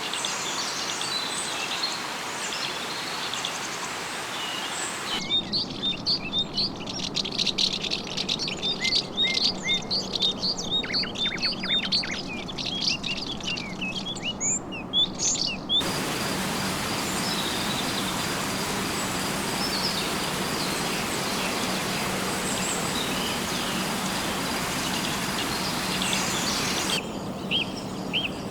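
Rainforest ambience: a steady hiss with scattered bird calls. From about five seconds in, a dense chorus of many rapid, high chirping birds cuts in abruptly and stops just as abruptly about ten seconds later. A similar burst of chirps returns near the end.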